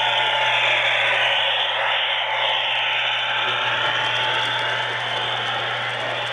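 Lionel model trains running on a layout: a steady rolling, clattering noise of wheels on track with a constant low hum underneath.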